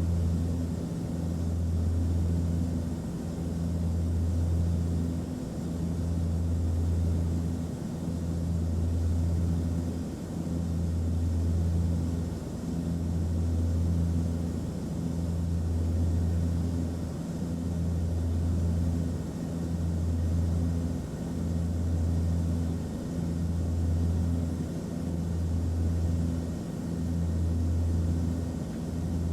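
Airplane cabin noise in flight: a steady drone and airflow hiss, with a low hum that throbs about every two seconds.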